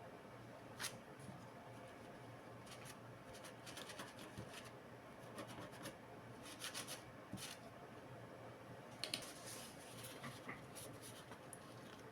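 Faint, irregular small clicks and scratches of hands and tools working on a laptop's parts, coming in loose clusters, with the sharpest clicks about nine seconds in.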